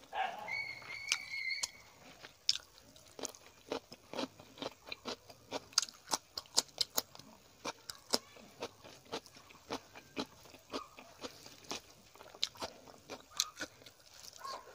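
Close-up chewing of rice and chicken curry eaten by hand: a steady run of wet, crunchy mouth clicks, several a second, picked up by a clip-on microphone on the eater's chest.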